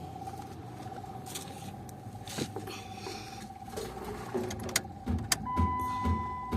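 Car being readied to start: keys jangle and click, then a steady electronic warning-chime tone comes on about five seconds in, with a series of low thumps.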